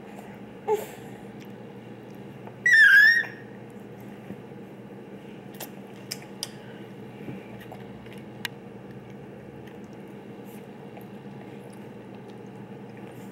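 A baby's high-pitched squeal, about half a second long with a wavering pitch, around three seconds in, after a short vocal sound just before it; a few light clicks and taps follow.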